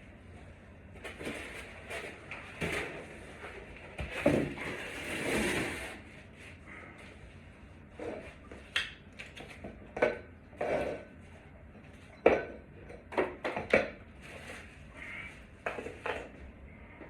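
Irregular knocks, clicks and rattles of small hard objects being handled, with a scraping, rustling stretch about four seconds in, followed by a run of sharp clicks and knocks.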